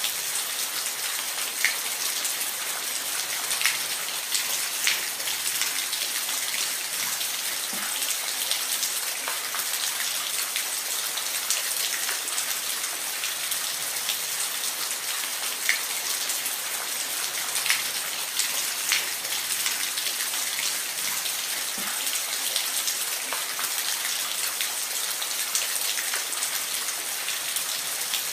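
Steady rain falling, a dense hiss with scattered louder drops tapping close by.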